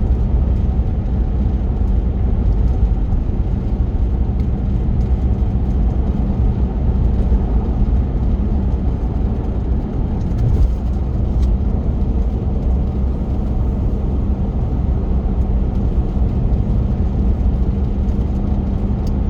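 Car driving at steady speed, heard from inside the cabin: a constant low engine and tyre-on-road rumble with a faint steady hum.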